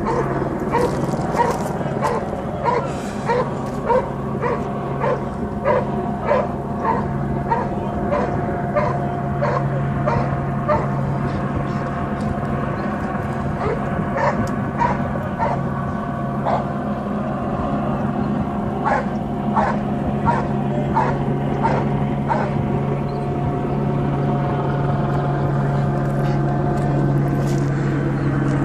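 A dog barking repeatedly, about one to two barks a second, in runs with short pauses, over a steady low drone.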